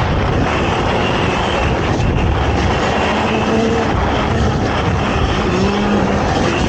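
ATV engine running hard during an off-road race, buried in heavy wind and rumble noise on the microphone; its engine note rises briefly about three seconds in and again near the end.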